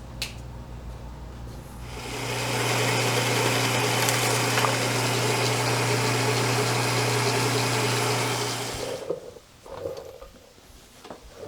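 A small electric power tool running steadily for about seven seconds. It starts about two seconds in with a low motor hum under a bright whirring noise, then winds down near the end. A couple of small clicks come just before it.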